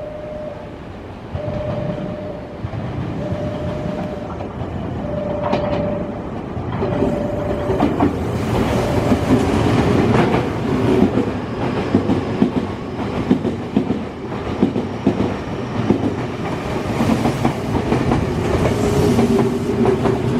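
Semboku 5000 series and 12000 series electric trains passing through the station: a single repeating tone sounds on and off about every second and a half, then from about seven seconds in the wheels clatter over the rail joints, getting louder, with a steady motor whine near the end.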